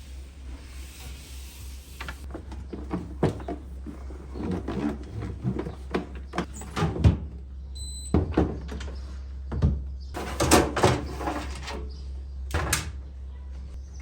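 Household objects being handled: irregular knocks, clicks and clatter as things are picked up, set down and shut, with a short high beep about eight seconds in, over a steady low hum.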